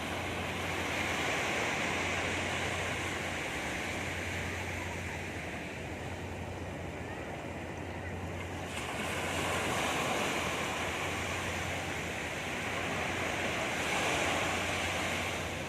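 Sea waves breaking and washing up a beach, the surf swelling and easing several times.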